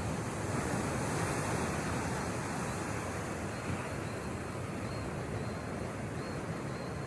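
Ocean surf and wind at the shore, a steady rushing noise.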